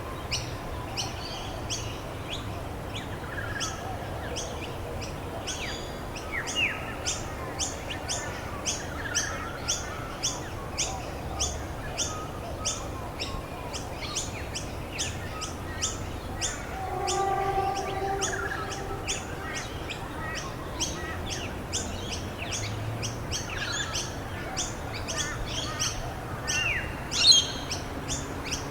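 Wild birds chirping: one bird repeats a short high chirp about two times a second, with other birds calling now and then and a louder call near the end, over a steady background hiss.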